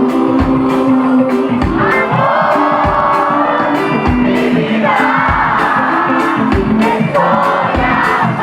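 Live reggae band playing, with singing over a bass line and a steady kick-drum beat.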